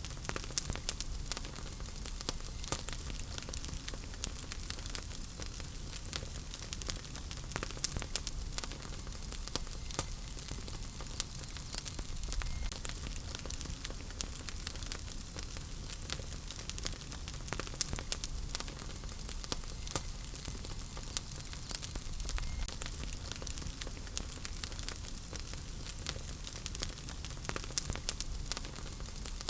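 Wood fire burning in a fireplace, crackling and popping with many small sharp snaps over a steady hiss and low rumble of flames.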